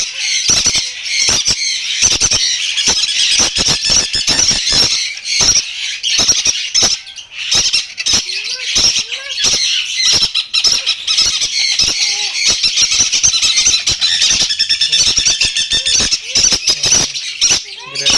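Many caged parrots squawking and screeching at once, a continuous shrill chorus with sharp individual calls cutting through it.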